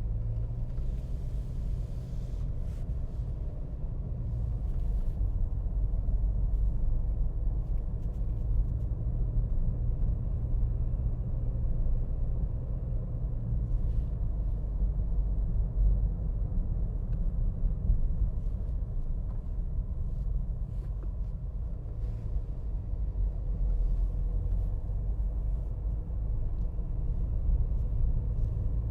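Steady low vehicle rumble with no clear events standing out.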